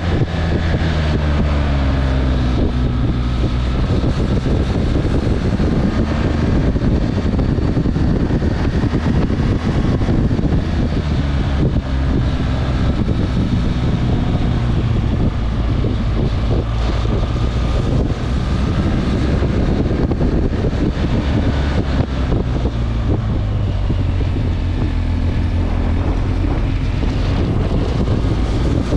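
Motorcycle engine running while riding, with small rises and falls in pitch and wind noise on the microphone.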